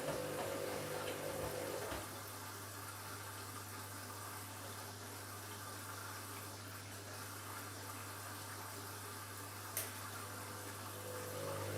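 Washing machine taking in water: a steady rush of inflowing water over a low hum. A motor whine stops about two seconds in and starts again near the end, with a single click shortly before it returns.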